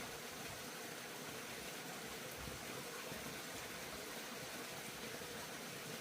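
Steady sizzling of food frying in hot oil in a pan.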